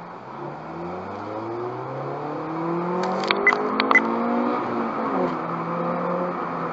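Car engine accelerating from a standstill, heard from inside the cabin: its pitch climbs as the car speeds up, then drops about five seconds in. A quick cluster of sharp clicks comes between three and four seconds in.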